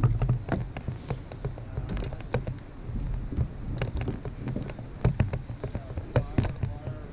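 Irregular light taps and knocks, several a second, over a low steady rumble, from gear and water around a fishing kayak.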